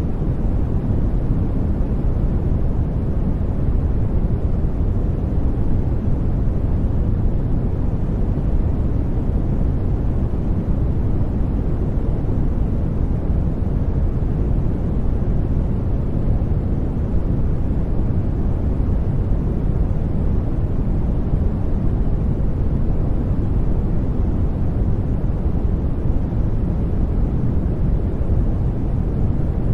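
Steady synthetic sleep noise, sold as soft white noise, unchanging throughout and deep in tone, with most of its weight in the low end and little treble.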